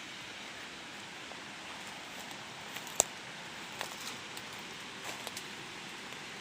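Steady rushing hiss of a waterfall, with a few sharp snaps of footsteps through undergrowth, the loudest about three seconds in.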